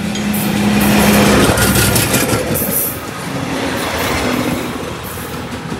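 Train passing close by on the rails, loudest about a second or two in and then easing off. A steady low hum stops about a second and a half in, while the cars rattle along the track.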